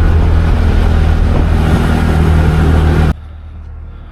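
A motor vehicle's engine running steadily and loudly, heard from on board, cutting off abruptly about three seconds in.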